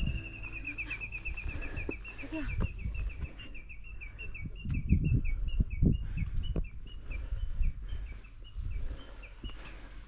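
A songbird singing one long series of short whistled notes, rapid at first and slowing so the notes spread out toward the end. Heavy low thumps of footsteps on the trail come through between about two and seven seconds in.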